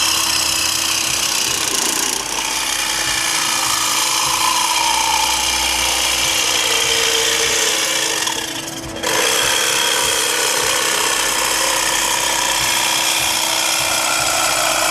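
Reciprocating saw (Sawzall) cutting lengthwise through steel muffler pipe in a steady run. It briefly dips just before nine seconds in, then cuts on.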